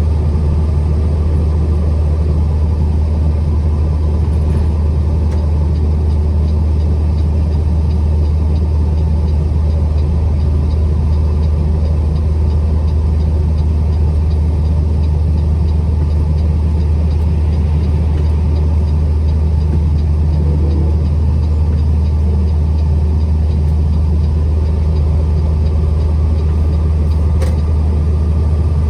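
Truck driving at a steady pace: a constant low engine drone and road rumble that neither rises nor falls.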